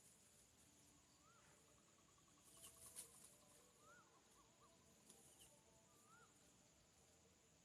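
Faint bird calls: short rising-then-falling whistles repeated every two seconds or so, with a quick run of pips in between, over a steady high insect hum.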